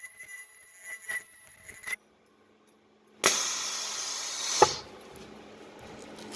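Ultrasonic welding machine running a weld cycle on velcro tape: a few small clicks, then a sudden loud hiss for about a second and a half that ends with a sharp click, leaving a quieter steady hum.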